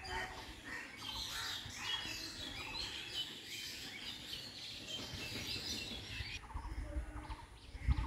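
Many small birds chirping and twittering together, the calls thinning out about six seconds in, over a low rumble.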